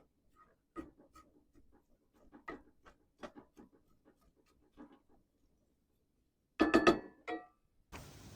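Scattered light clicks and taps, then a loud brief clatter of hard objects with a ringing, metallic edge about seven seconds in. A steady hiss starts abruptly near the end.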